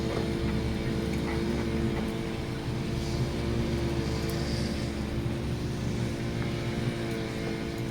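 A steady mechanical hum, like a small motor or fan running, with a few constant tones over a low rumble.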